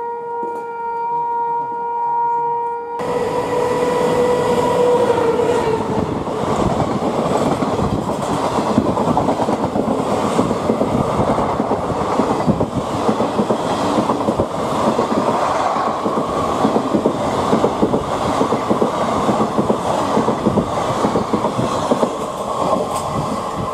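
A locomotive horn sounds one long steady blast for the first several seconds. Then an Indian Railways express of ICF coaches passes close at speed, its wheels clattering and rumbling over the rails, easing off near the end as the last coach goes by.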